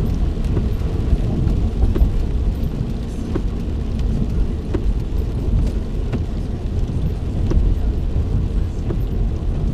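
Steady road and engine rumble heard from inside a moving car's cabin, with scattered raindrops ticking on the car at irregular times.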